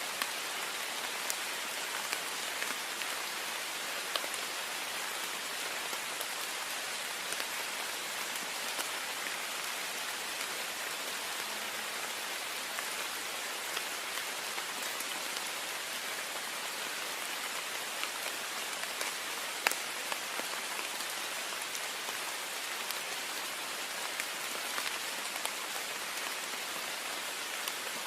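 Heavy rain on a window: a steady hiss of rain, with sharp individual drop ticks scattered through it, one a little louder about two-thirds of the way in.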